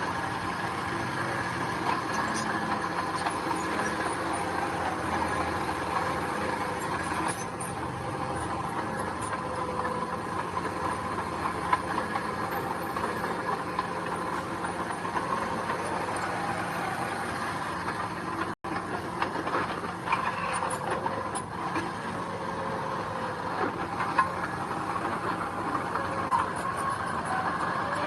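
Heavy diesel earthmoving machinery, a bulldozer or dump truck, running steadily. The sound drops out for an instant about two-thirds of the way through.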